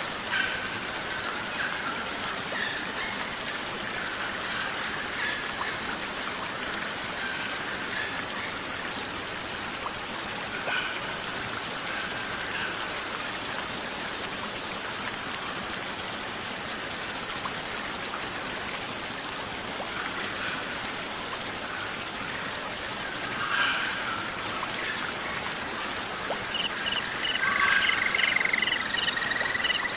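Steady hiss of rain, with faint bird calls scattered through it. Near the end a cricket starts chirping in evenly spaced pulses, about three a second.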